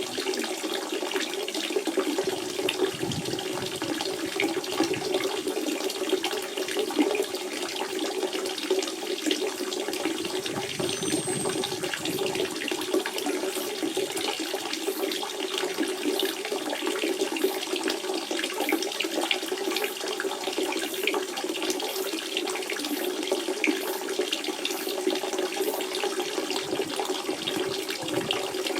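Natural spring water running and splashing steadily.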